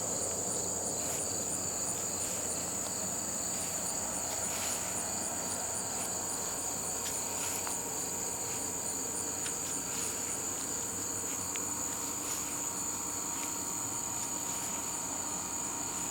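Steady high-pitched chorus of crickets or similar insects, with an even fine pulsing over the top, and a few faint clicks here and there.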